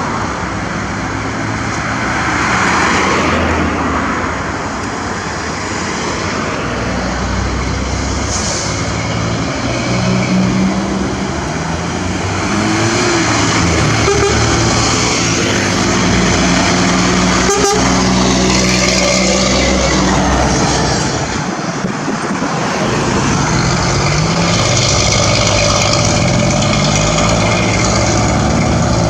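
Motor vehicle engine running loudly, its pitch climbing and falling in steps as it is revved.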